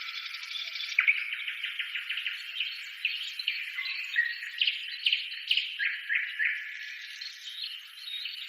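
Small birds chirping in a dense chorus: quick runs of short chirps repeating several times a second, overlapping one another with the odd brief whistle.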